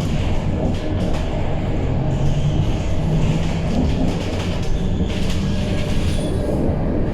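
Scania K230UB city bus in service: its engine runs under a continuous rumble of road and body noise, and the engine note climbs a couple of seconds in as the bus pulls harder.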